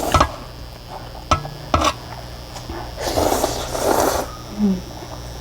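Utensils clinking against a ramyun bowl three times, then about a second of noisy slurping while eating the noodles.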